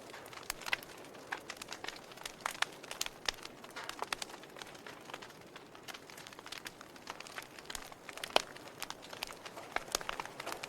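Wood fire crackling, with irregular sharp snaps and pops over a soft steady hiss; the loudest pop comes about eight seconds in.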